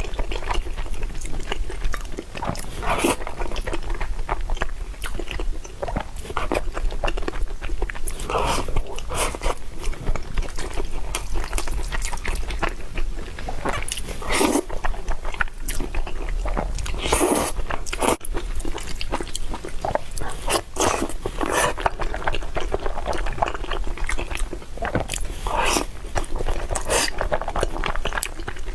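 A person chewing and biting noodles and fried pork tendon close to the microphone, with wet mouth clicks and crunches at irregular intervals.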